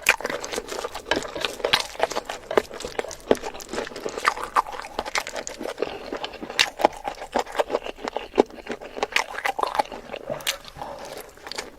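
Close-miked eating sounds: irregular wet chewing, mouth smacks and crunches following one another quickly.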